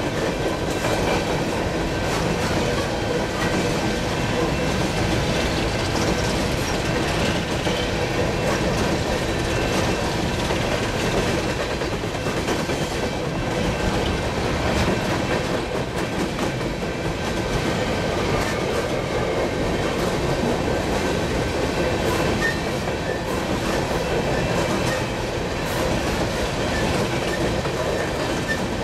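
Coal gondolas of a freight train rolling past close by: a steady rumble of steel wheels on rail with clickety-clack over the rail joints and a faint high wheel squeal.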